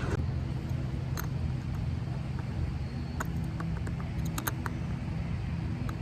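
A steady low hum with a few short, sharp clicks and taps over it, the busiest cluster of clicks about four and a half seconds in.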